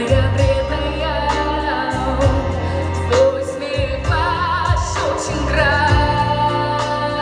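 Female solo voice singing a song over a backing track of bass and keyboards. Several held notes carry a clear vibrato.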